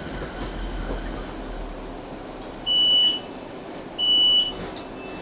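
Inside a Class 458 electric train coming into a station: a low running rumble fades away. Then come two steady high electronic beeps, each about half a second long and about a second and a half apart, typical of the door warning tone.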